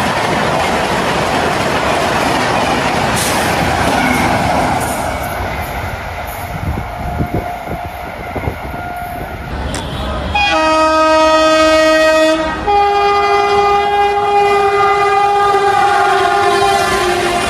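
Indian Railways express train running past with rail and wheel noise, then sounding its horn about ten seconds in: one long note, then a second, higher note held steadily.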